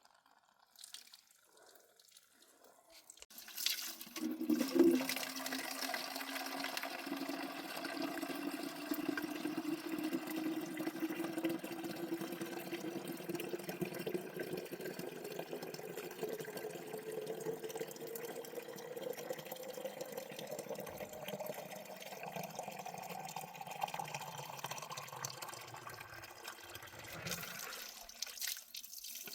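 Water running steadily into a container, starting a few seconds in; its pitch rises slowly as the vessel fills, and it stops shortly before the end.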